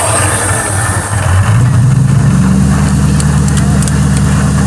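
Car engine running close by, its note stepping up about a second and a half in and then holding steady at a higher idle.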